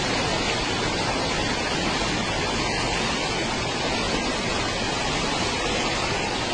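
Steady rushing of fast-moving floodwater, an even wash of noise with no distinct events.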